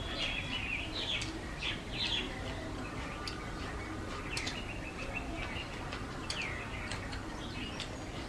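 Repeated short, high, downward-sweeping bird chirps, one held briefly as a steady note, over soft wet eating sounds of hands working water-soaked rice and chewing.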